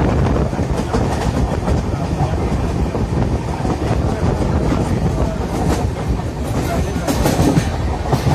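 Passenger train running at speed, heard from inside a coach at the window: a steady rumble of wheels on rails with air rushing past. A few sharp clacks from the wheels come in the second half.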